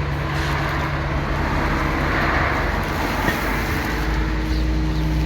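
Steady motor-vehicle engine hum with traffic noise, swelling around two to three seconds in as a vehicle goes by.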